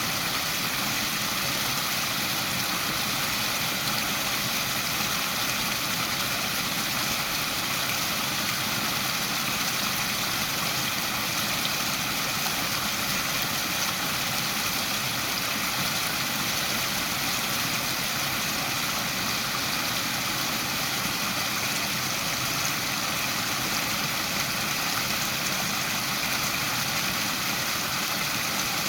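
Waterfall: a steady rushing of falling water, without a break.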